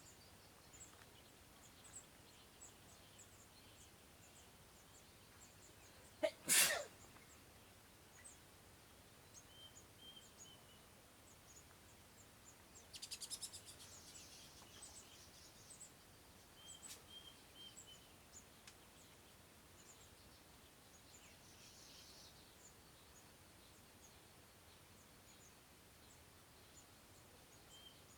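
Faint small birds calling: scattered short high chirps throughout, a few brief warbled calls, and a rapid rattling buzz about thirteen seconds in. A sudden loud burst about six seconds in stands out above them.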